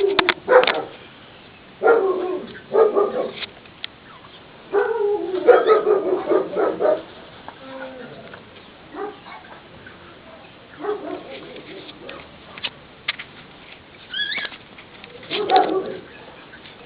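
Basset hound barking in a series of short bursts with pauses between them, a longer run of barks about five seconds in.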